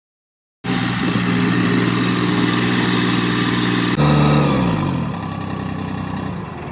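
Massey Ferguson compact tractor engine running steadily at raised revs; about four seconds in the revs drop, the pitch falling, and it settles to a lower, quieter idle.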